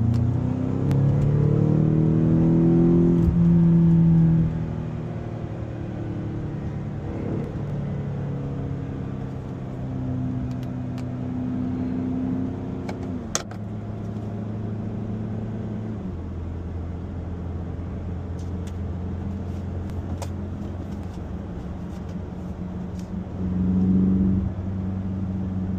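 A 2019 BMW X6M's twin-turbo V8, heard from inside the cabin through a Valvetronic Designs valved sport exhaust with the valves open. The engine note climbs hard for the first few seconds under acceleration, falls away, then carries on at a lower steady note while cruising. A short rise in revs comes near the end.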